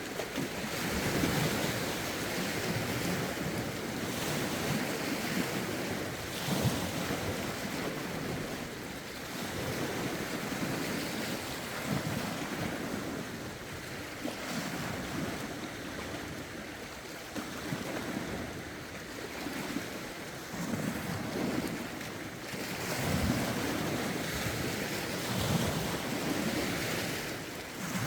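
Lake waves lapping and breaking against the shore in a steady, uneven rhythm, whipped up by a stiff wind, with wind rushing over the microphone.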